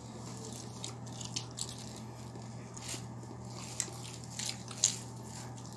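Eating chicken close to the microphone: scattered short clicks and smacks of biting and chewing, the sharpest a little under five seconds in, over a steady low hum.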